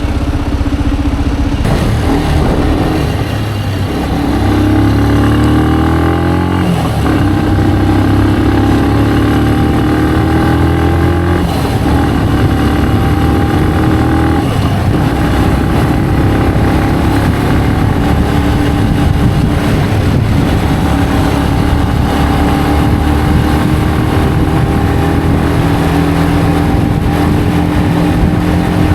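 Benelli BN125 motorcycle's single-cylinder engine accelerating, its pitch climbing and dropping back at two gear changes, then holding a steady cruise.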